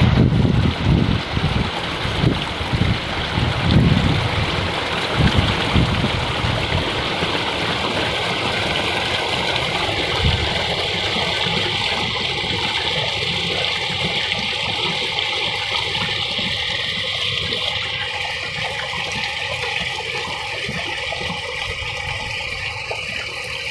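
Running water rushing steadily, with irregular low rumbling surges in the first few seconds.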